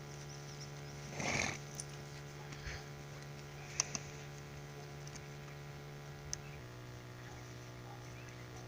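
A steady low mechanical hum whose pitch drops slightly about six and a half seconds in, with a short loud noisy burst about a second in and a few sharp clicks.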